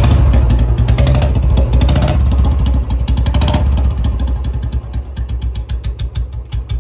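Old-model Royal Enfield Bullet single-cylinder engine running with freshly fitted contact-breaker points being set. It runs at a higher, steady speed, then about four and a half seconds in drops to a slow idle with distinct, even firing beats, about five a second.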